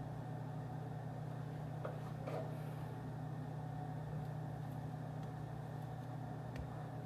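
Steady low hum of office ambience, like ventilation or air conditioning, with a few faint light taps or clicks about two seconds in and again near the end.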